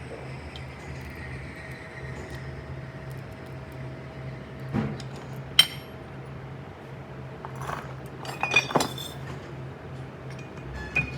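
Metal tools and parts clinking and tapping against each other in a handful of separate sharp, ringing clinks. There is one about halfway, a quick cluster about three-quarters through and one more near the end, over a steady low hum.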